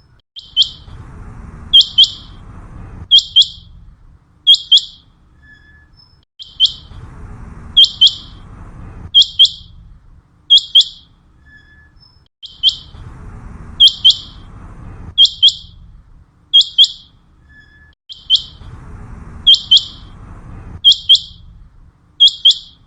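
Common quail calling: short, sharp, high notes, mostly in quick pairs, with the same sequence repeating about every six seconds.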